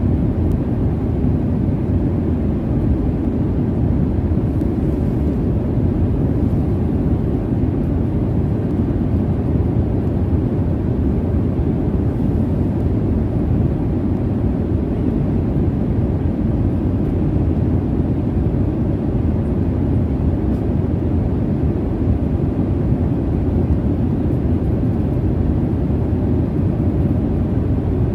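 Jet airliner cabin noise: a steady, even low rumble of engine and airflow noise, with no changes.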